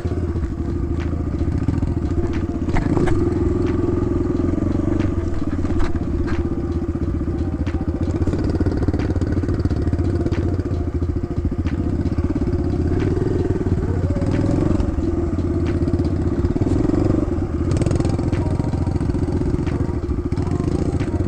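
Kawasaki KLX110 dirt bike's small single-cylinder four-stroke engine running steadily as it is ridden, its pitch wandering a little now and then, with scattered clicks and rattles over the top.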